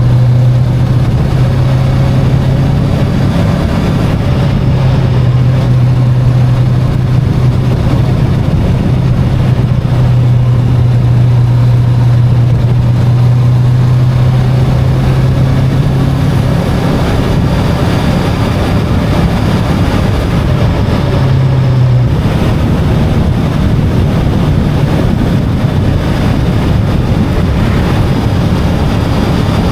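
Voge 525DSX motorcycle's parallel-twin engine running at a steady cruise under loud wind and road noise. The steady engine note drops away about 22 seconds in, leaving the rush of wind and tyres.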